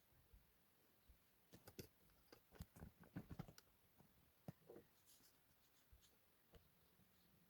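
Faint scattered clicks and taps, bunched between about one and a half and three and a half seconds in, with a few more later, over near silence.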